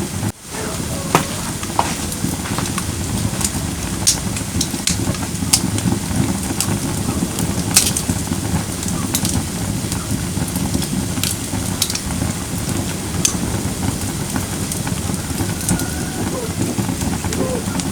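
Firewood burning in a campfire brazier: a steady low rush of flame with scattered sharp crackles and pops.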